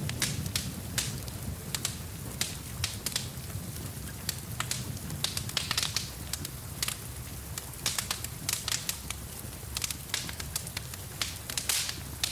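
Wood fire crackling in a fireplace: irregular sharp pops and snaps, several a second, over a steady low rushing.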